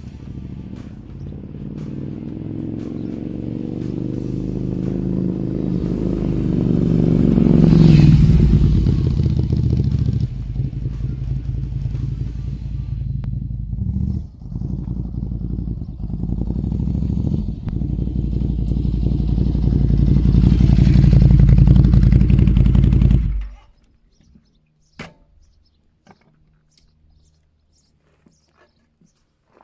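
Motorcycle engine running under load, rising in pitch and loudness over the first eight seconds, then running on until it cuts off abruptly about 23 seconds in, followed by a few faint clicks.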